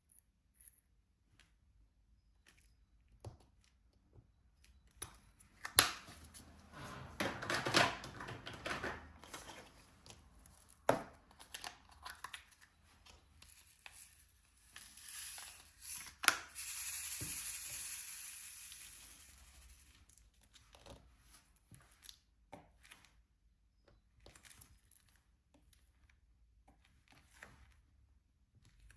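Plastic crinkling and peeling during diamond painting, in two longer rustling spells, with scattered light clicks and taps of the tools and drills between them.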